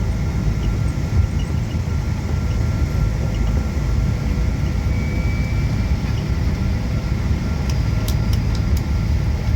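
Steady low rumble inside a Boeing 777's cabin as the airliner rolls on the ground just after landing, with a few light clicks near the end.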